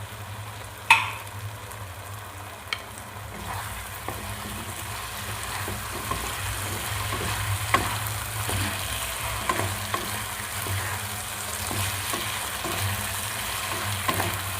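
Chicken pieces sizzling in a sauce in a hot pan while being stirred with a wooden spatula, which knocks and scrapes against the pan again and again; a sharp knock about a second in is the loudest.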